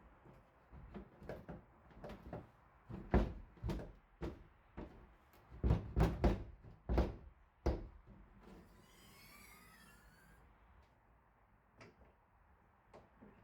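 Engine hatch lock and latch hardware on a fibreglass boat being worked by hand: a run of sharp clicks and clunks, heaviest in the first half, then a brief high warbling sound and a few light clicks.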